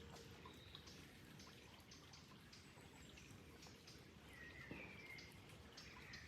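Faint dripping and trickling water with scattered small ticks, and a few short bird chirps about four to five seconds in.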